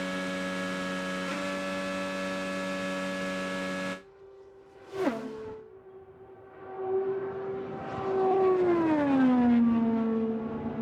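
IndyCar 2.2-litre twin-turbo V6 engines at speed: a steady high engine note that cuts off about four seconds in, then one car passes with a quick, sharp drop in pitch, and another approaches and passes, its pitch falling near the end.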